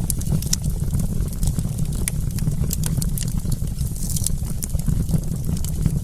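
Wood campfire crackling: frequent sharp pops and snaps at an irregular pace over a steady low rumble.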